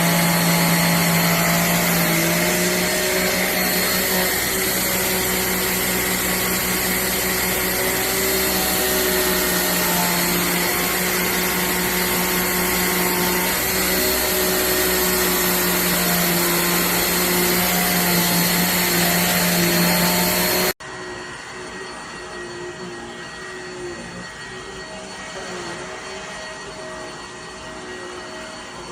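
JIMMY BX7 Pro handheld dust mite vacuum cleaner running steadily with a loud motor hum. Its pitch steps up slightly about two seconds in. About twenty seconds in the sound drops suddenly to a quieter, similar running sound.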